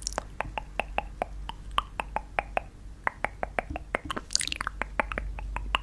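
A quick run of light, sharp clicks or taps, about four to five a second, each with a short ringing pitch.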